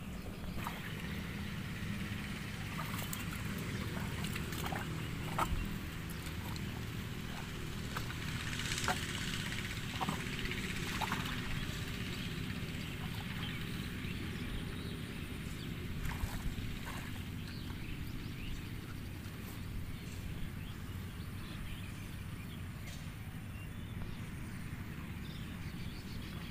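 Mahindra Arjun Novo 605 DI-MS tractor's diesel engine running steadily, with a few sharp knocks and clicks scattered over it.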